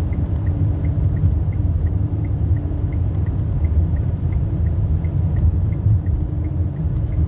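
A car's steady low road and engine rumble while driving, with a light, regular ticking about three times a second above it.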